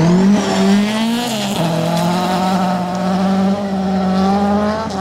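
Rally car engine pulled hard on loose gravel: the revs climb, drop with a gear change about a second and a half in, then hold high and steady before falling away near the end.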